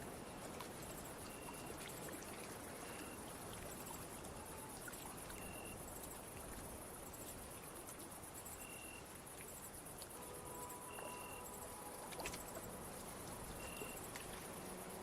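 Night ambience of insects chirping: a short chirp repeating about every one and a half seconds over a steady high trill. Under it runs a soft, even wash of water, and a few faint held music notes come in around two-thirds of the way through.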